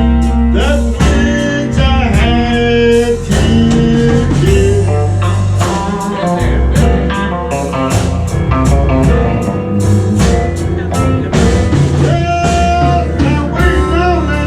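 Live blues band playing, with guitar lines over a steady bass and drums keeping a regular beat.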